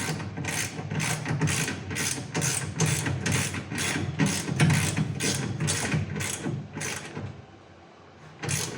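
Socket ratchet wrench clicking in quick, even strokes, about three to four a second, as a carriage bolt on a garage door track bracket is tightened. The strokes stop about seven seconds in, with one more near the end.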